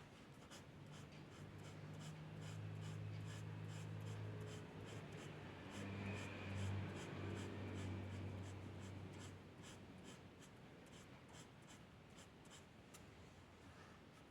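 Drawing strokes on paper, a steady run of short scratches. A low hum comes in about a second in and fades out by about ten seconds, and it is the loudest sound while it lasts.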